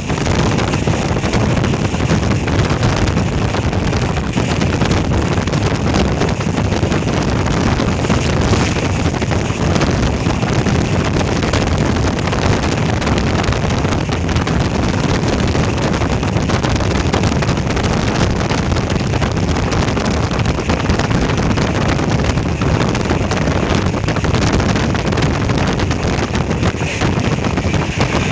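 Steady, loud rushing of wind buffeting the microphone, heaviest in the low rumble, with no separate events standing out.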